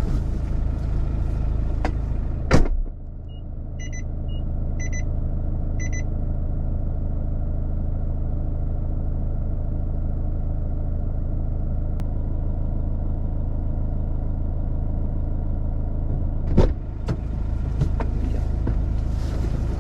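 A vehicle's engine idling steadily, with a car door shutting with a thump about two and a half seconds in. A few short electronic beeps follow, and another door thump comes near the end, after which the engine sounds louder.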